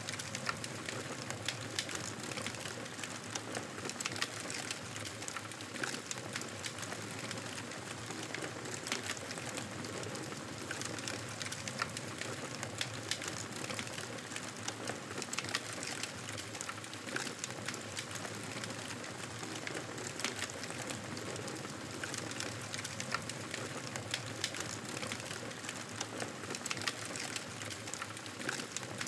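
Campfire burning steadily, with frequent small crackles and pops of the wood over a low hiss and rumble of the flames.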